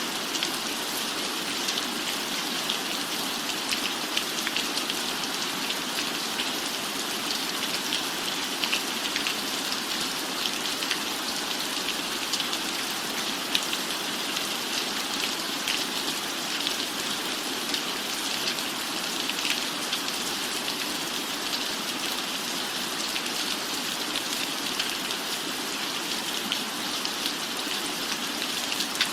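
Steady rain falling on a cabin roof: an even hiss with a dense patter of individual drops.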